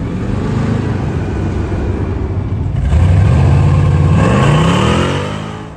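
Engines of classic cars driving past. About three seconds in one engine grows louder, and near the end it revs up, its pitch rising, before the sound cuts off suddenly.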